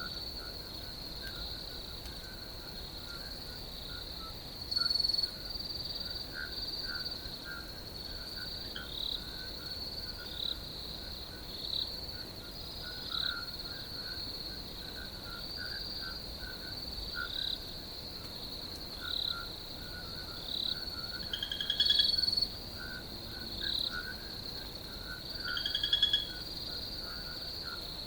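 Crickets chirping in a steady high-pitched trill, overlaid by many short repeated calls from other night animals. A few of these calls are louder, about five seconds in, around 22 seconds and around 26 seconds.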